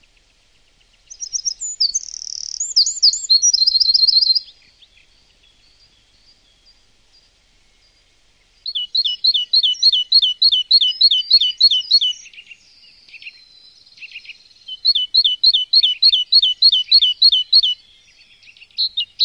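A songbird singing loud, high-pitched phrases, each a quick run of repeated notes. There are three phrases with quiet gaps between them, and another begins near the end.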